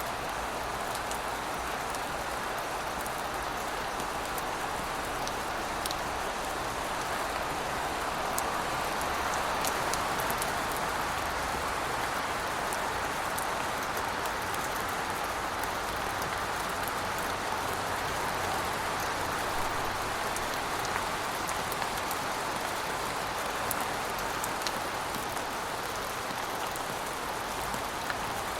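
Steady rainfall, an even hiss of rain with scattered individual drops ticking, swelling slightly for a few seconds.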